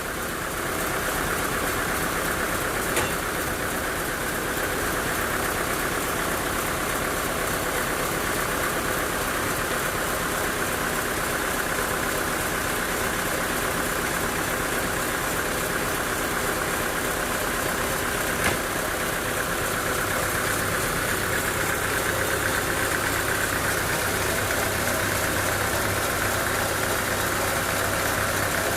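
Sawmill machinery running steadily with an engine-like hum, broken by two short sharp knocks, one about three seconds in and another midway.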